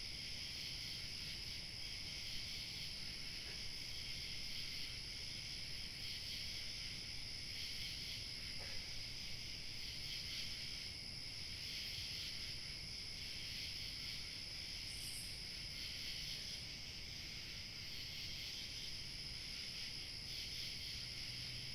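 Chorus of crickets chirping continuously in several overlapping pitches, with a faint low rumble underneath and one brief higher chirp about two-thirds of the way through.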